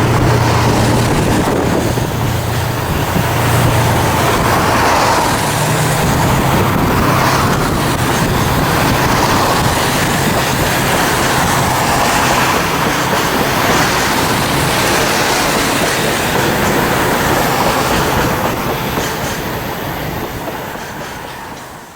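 Freight train of Koki container wagons behind a DF200 diesel-electric locomotive rolling past, wheels clacking over the rail joints. A low steady engine hum sounds in the first few seconds, and the rolling sound fades near the end before cutting off.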